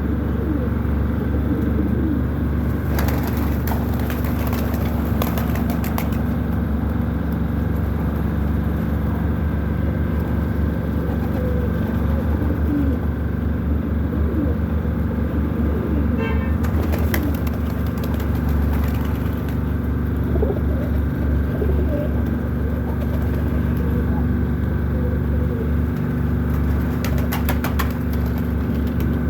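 Pigeons cooing repeatedly over a steady low hum, with a few brief bursts of clicking.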